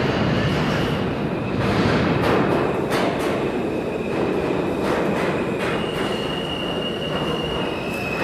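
New York City subway F train running: a steady loud rumble with irregular clicks of the wheels over the rails. A thin high-pitched squeal comes in about five and a half seconds in and holds.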